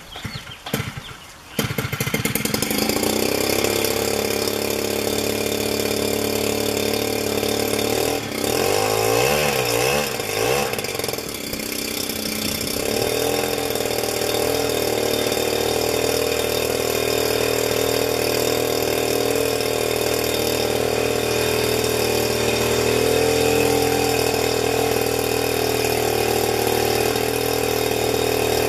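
Zenoah GT80 twin-cylinder two-stroke gas engine with a Bisson can-type muffler, turning a 24x10 propeller. It catches about a second and a half in, rises and falls in pitch a few times, then runs steadily at high throttle, near 6,000 RPM.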